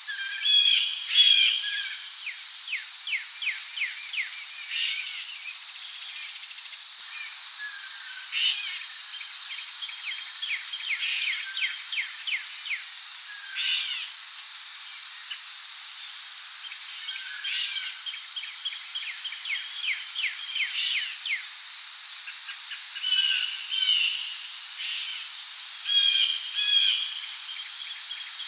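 Rainforest ambience: a steady, high-pitched drone of crickets, with birds chirping over it. Short rapid trills and a sharp call recur every three or four seconds.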